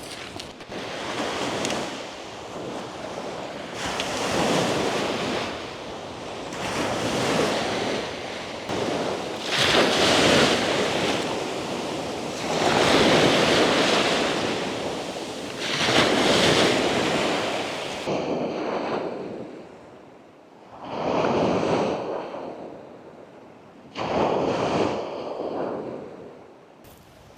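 Sea waves breaking on the shore, the surf swelling and fading in repeated surges every two to three seconds. The last few surges sound duller, with less hiss.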